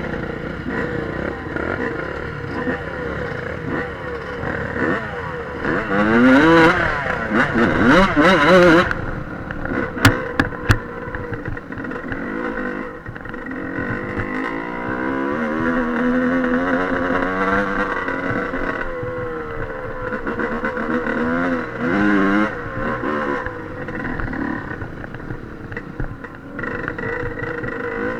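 Dirt bike engine running while riding, revving up and falling back several times as the throttle is worked. A few sharp knocks about ten seconds in.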